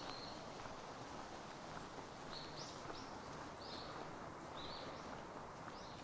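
A small bird chirping in short, high notes, a brief one at the start and then about six more from a little past two seconds in to near the end, over steady outdoor background noise.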